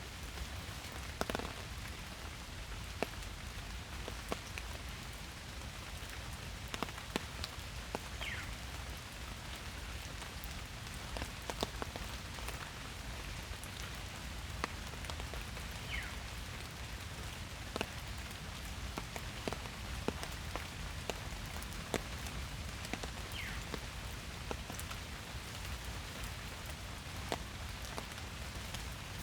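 Steady rain falling in a forest, an even patter with many individual drops ticking sharply at irregular moments.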